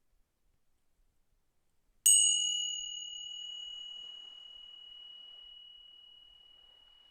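A small high-pitched metal bell struck once about two seconds in, ringing with one clear tone that slowly dies away, its brighter overtones fading first.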